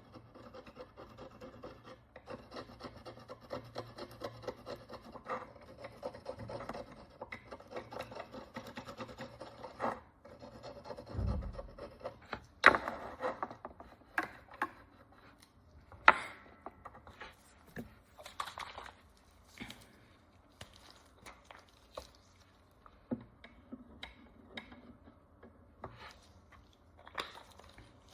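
A cleaning tool scraping and rubbing at the crust on a Roman bronze coin. It is a close, continuous scratching for about the first ten seconds, then scattered short scrapes and a few sharp taps.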